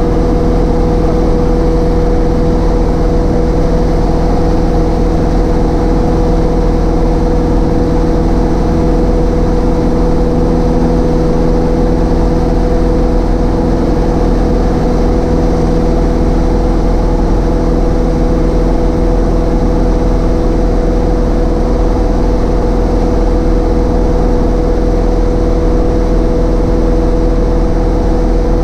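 Cessna 152's four-cylinder Lycoming engine and propeller running steadily in flight, a constant drone with no change in pitch.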